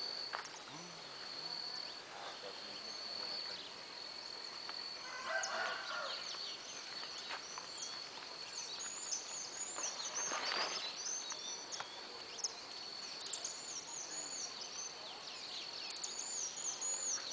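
Birds calling outdoors in repeated series of short high chirps, over a steady high insect whine. A brief noise comes about ten seconds in.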